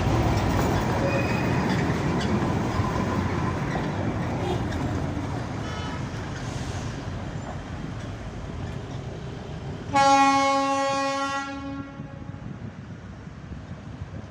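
Darjeeling Himalayan Railway diesel locomotive running and slowly fading away, then one loud horn blast lasting about a second and a half, about two-thirds of the way through.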